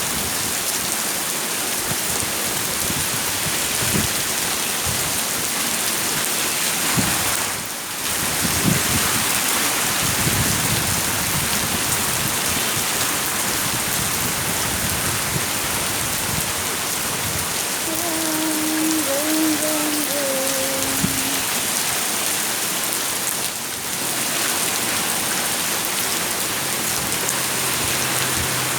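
Heavy rain pouring down in a steady hiss, with brief lulls twice. A faint, short pitched sound comes through about two-thirds of the way in.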